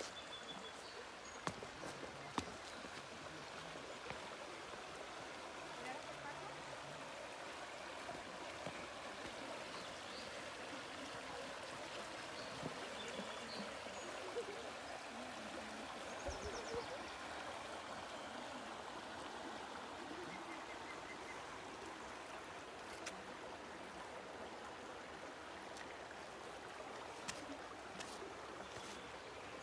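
A stream of water running steadily, a continuous rushing and trickling.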